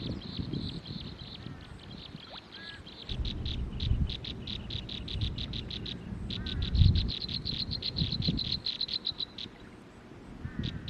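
Wild animal calls: a high, rapid pulsed trill of about eight to ten pulses a second that stops and starts again, with a few short faint chirps. Low uneven rumbles and thumps run underneath, the loudest about two-thirds of the way in.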